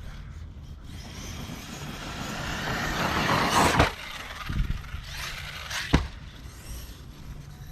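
Arrma Kraton 6S RC truck's brushless motor and drivetrain running at speed, getting louder for about three seconds and cutting off sharply near the middle, followed by two sharp knocks about a second apart.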